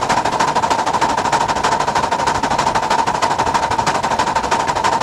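Miniature steam locomotive working hard at speed, its exhaust beats coming rapidly and evenly, about ten a second.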